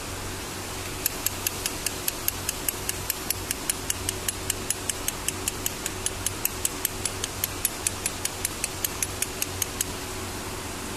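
A rapid, even series of light metallic clicks, about four or five a second, starting about a second in and stopping near the end, over a steady low hum.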